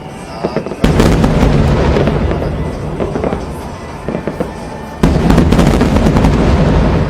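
Fireworks display: a barrage of shells bursting, with dense crackling. It starts suddenly about a second in, fades, and a second loud barrage breaks about five seconds in.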